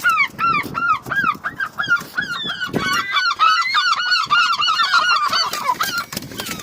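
Seagulls calling loudly in a fast, unbroken run of harsh squawks, about three to four a second, with a second bird's calls overlapping from about halfway through: aggressive calling during a fight between two gulls.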